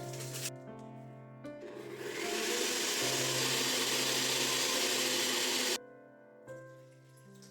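A small electric motor appliance runs loudly for about four seconds, with a whirring noise that builds up and then cuts off suddenly. Soft background music plays throughout.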